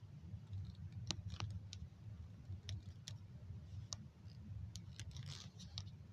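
Scattered, irregular clicks and taps of someone working a device, about ten in a few seconds, over a steady low hum.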